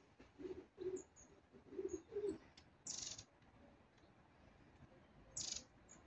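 Long-tailed tits calling: thin, very high 'see' notes and two short buzzy rattling calls, one about three seconds in and one near the end. A low cooing call repeats four times in the first half.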